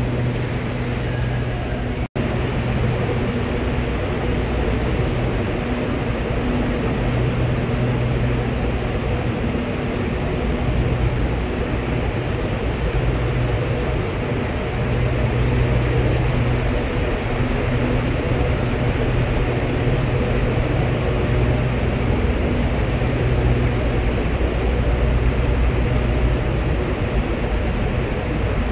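High-speed intercity train rolling in alongside an underground station platform: a steady low rumble with a hum, broken by a brief dropout about two seconds in.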